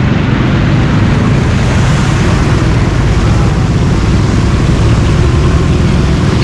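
Loud, steady road-traffic and engine noise with no distinct events.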